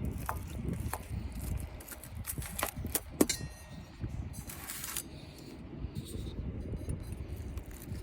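Scattered clinks and knocks of metal cooking utensils against cookware, with one ringing clink about three seconds in. There is a brief hiss near the middle, over a steady low rumble.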